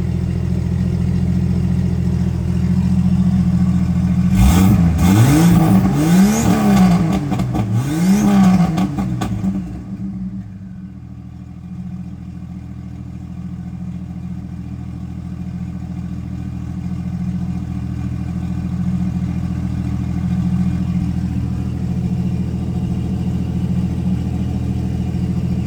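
Turbocharged Jeep 4.0 inline-six idling, revved three times in quick succession between about four and nine seconds in, each rev rising and falling in pitch. It then settles back to a steady, quieter idle.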